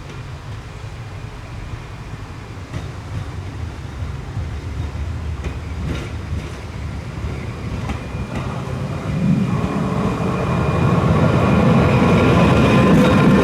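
A Trieste–Opicina tram running on its rails and drawing closer, growing steadily louder. A low rumble comes first with occasional rail clicks, and a steady high whine joins in over the last few seconds as it nears.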